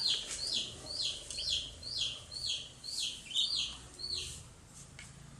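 Baby chicks peeping: a quick run of high calls, each sliding down in pitch, about two or three a second, stopping near the end.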